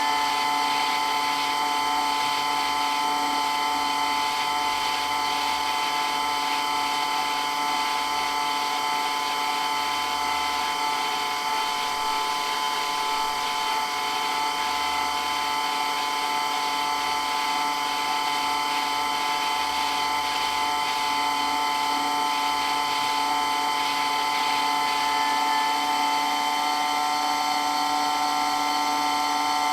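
Water pump for water blasting running steadily with a whine: several constant tones over an even hiss, holding an unchanging level.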